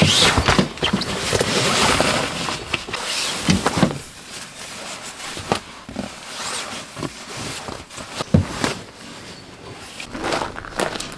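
Handling noises: a run of clicks, knocks and rustling, busier and louder in the first four seconds and more scattered after.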